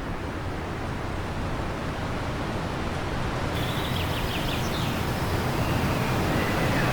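Wind blowing steadily, slowly growing louder, with a few faint bird chirps about halfway through.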